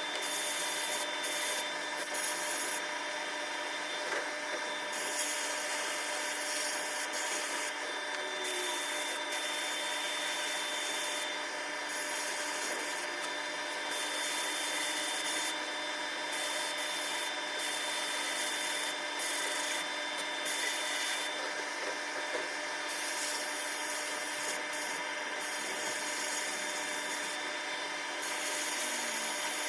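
Continuous abrasive sanding or rubbing on the soldering iron's metal parts, over a steady hum.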